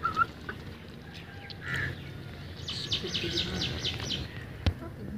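Birds calling: a short rising chirp at the start, a brief call about two seconds in, then a quick run of about eight high chirps in the middle. A single sharp click comes near the end.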